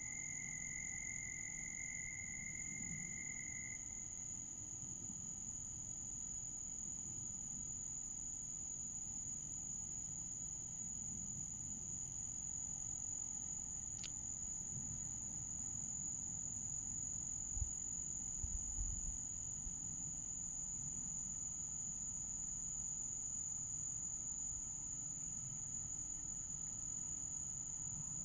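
Night insect chorus: one steady, high-pitched trill that runs unbroken, joined for the first few seconds by a second, lower steady call. A few low bumps come about two-thirds of the way through.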